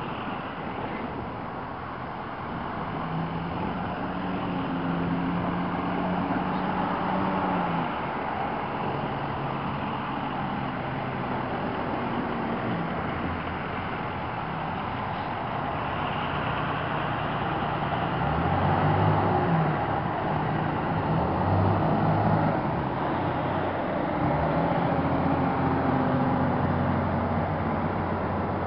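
Heavy fire trucks driving past one after another at low speed, their diesel engines running over steady road noise, the engine note changing as each truck goes by.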